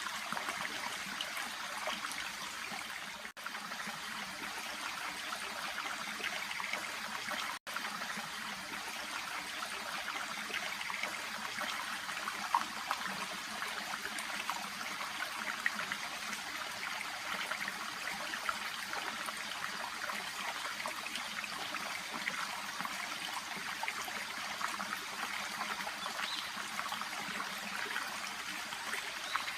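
A shallow brook babbling and trickling steadily, cut off for an instant twice near the start.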